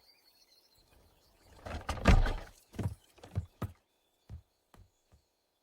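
Animated-cartoon sound effects: a short rushing swell about two seconds in, then a run of soft thuds that grow fainter and further apart.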